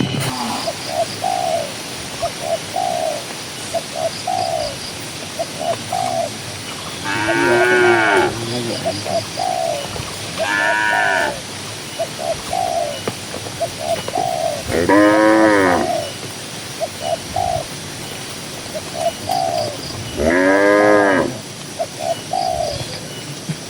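Cattle mooing: four long moos, each rising and falling in pitch over about a second, spaced several seconds apart. Under them a dove coos short notes about once a second throughout, with faint bird chirps.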